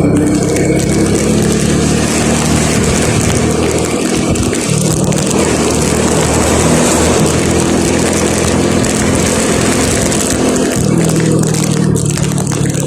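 A vehicle's engine running steadily under way, with a loud rushing of wind and road noise over it; the engine note shifts a little near the end.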